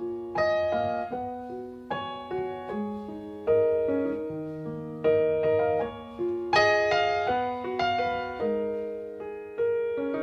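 Background music: a solo piano playing slow chords and melody notes, each struck and left to ring out.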